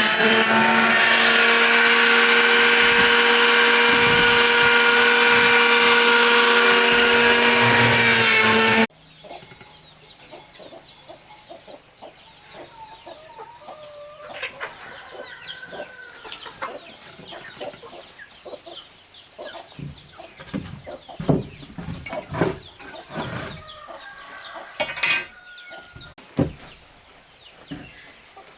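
A power tool's motor runs loudly at a steady pitch for about nine seconds and then cuts off suddenly. After that, chickens cluck among scattered light knocks and taps.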